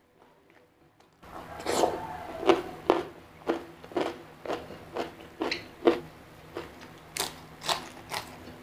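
Close-miked, crunchy chewing of a hand-fed mouthful of food, about two crunches a second, starting about a second in.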